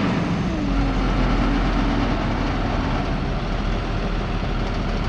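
Motor vehicle noise on a highway: a running engine with steady road and wind rumble, and an engine tone that falls about a second in.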